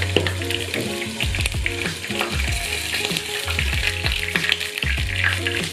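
Hot oil sizzling and crackling in a frying pan as food fries, a dense run of small pops throughout.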